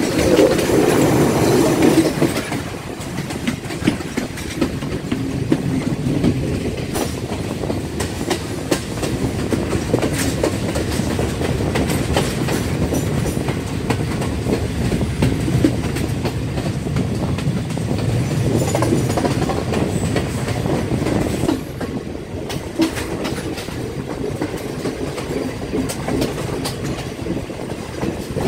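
Passenger train rolling along the track, heard from the open side of a carriage: a steady rumble of wheels on rail with scattered clicks and knocks. It is loudest in the first two seconds.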